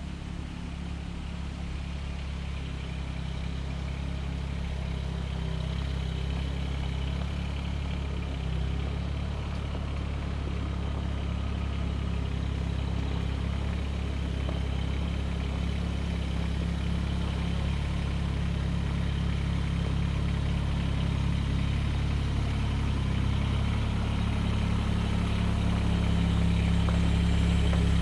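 An engine running steadily at a low, even speed, growing slowly louder.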